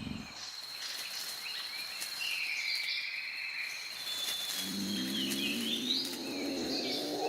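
Tropical rainforest ambience: a steady high insect drone with bird chirps and gliding calls over it. From a little past halfway, a lower pitched animal call rises in pitch.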